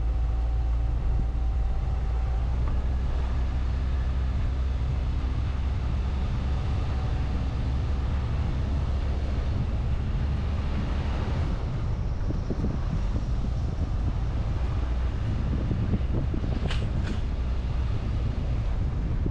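Car driving along a road, heard from the driver's position: a steady low engine hum with tyre and road noise. Near the end come two short, high-pitched squeaks less than half a second apart.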